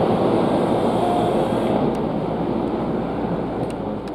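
Steady rumbling noise of a train standing at or moving along the platform, heard up close, fading away toward the end.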